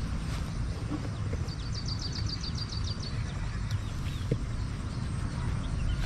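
Steady low wind rumble on the microphone, with a small bird's quick high trill of about a dozen notes about a second and a half in.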